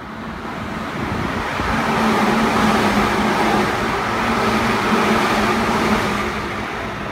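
Seibu 10000 series 'Red Arrow Classic' limited express passing through a station platform: a loud rumble of wheels on rail with a steady hum, building over the first two seconds and easing off near the end as the train goes by.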